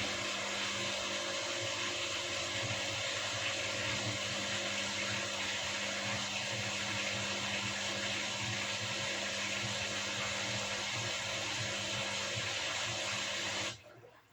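Washing machine running with a steady whirring noise and a constant hum, which stops abruptly near the end.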